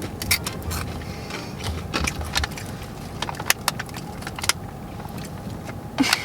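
Takis rolled tortilla chips being eaten: irregular crisp crunches and crackles, over a low steady hum that fades after about two seconds.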